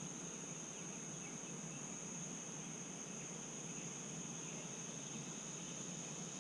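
Chorus of summer insects, a steady high-pitched drone that holds unbroken without any pulsing.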